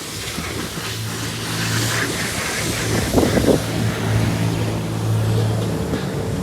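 A motor running with a steady low hum under a constant rushing hiss. There is a brief louder clatter about three seconds in.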